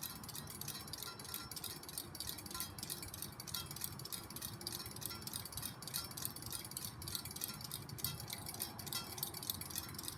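SMC Emperor ceiling fan running on low speed, with light, chime-like clinking that repeats about twice a second.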